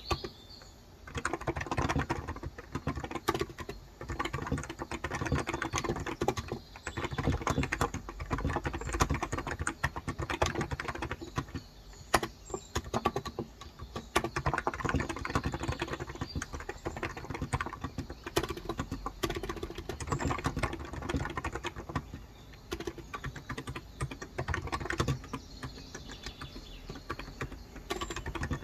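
Steady fast typing on a Cox Endeavor tenkeyless keyboard with electro-capacitive (Topre-style) 35 g switches: a dense run of keystrokes broken by a few short pauses.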